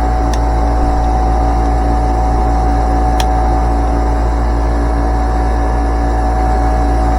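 Outdoor air-conditioning condenser unit with its fan motor running in a steady hum, and the compressor not sounding like it is running, which points the technician to checking the capacitor. Two sharp clicks come about a third of a second in and again about three seconds in.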